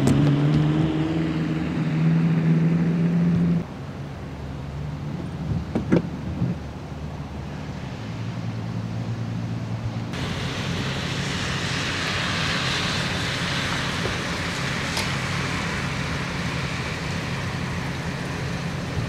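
Street sound cut together from several shots. First a vehicle engine running with a steady hum, then quieter ambience with a few knocks about six seconds in, then a steady hiss from about ten seconds in.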